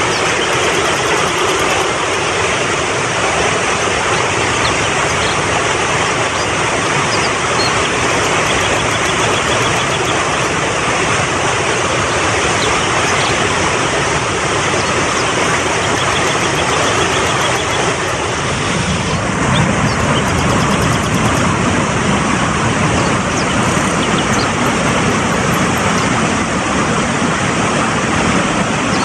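Mountain river water rushing and splashing fast in a steady, loud, even roar, growing deeper and fuller about two-thirds of the way in.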